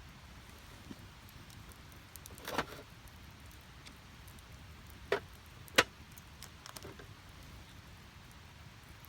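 Wood fire burning in a Snow Peak Takibi-dai S steel fire pit: a soft steady hiss with sharp crackling pops from the burning logs, a small cluster about two and a half seconds in, two loud pops around five and six seconds in, then a few faint ticks.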